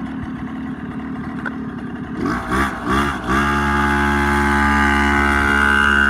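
Small single-cylinder mini bike engine running unevenly at low speed, then revved in three quick blips about two seconds in, then held at a steady, louder speed.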